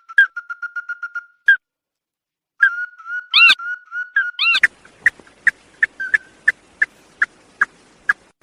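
Bird calls: a fast run of short notes at one steady pitch with a few louder rising-and-falling notes mixed in. The run breaks off for about a second, starts again, then gives way about halfway through to sharp single notes, roughly three a second.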